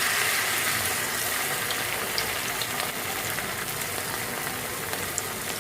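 Noodle-wrapped chicken pieces deep-frying in hot oil, sizzling and crackling steadily, a little louder near the start.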